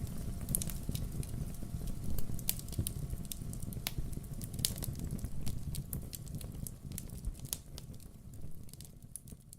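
Wood fire in a fireplace crackling, with frequent sharp pops over a low rumble of flames, fading down over the last few seconds.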